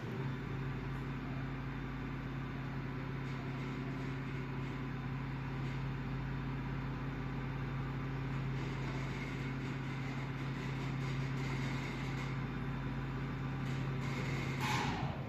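Elevator's two-speed electric hoist motor and winch running steadily at full speed with an even hum. Near the end it slows, with a falling whine.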